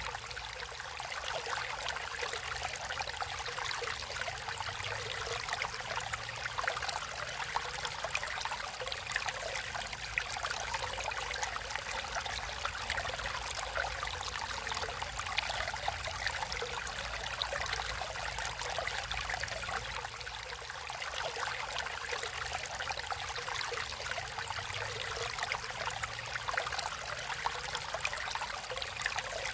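Stream water flowing and trickling steadily, a continuous babbling rush.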